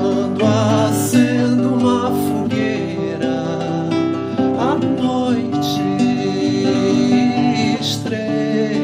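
Acoustic guitar playing a strummed and picked passage of a caipira-style folk song, with a melody line that wavers in pitch early on and a sliding note about halfway through.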